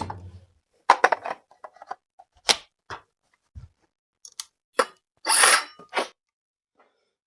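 Handling noises from fetching a battery and fitting it to a cordless power tool: a string of separate clicks and knocks, with a longer scrape or rustle about five seconds in.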